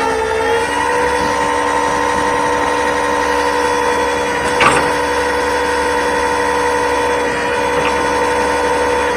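A motor vehicle engine running steadily at idle, with a steady whine over it and a single sharp click about halfway through.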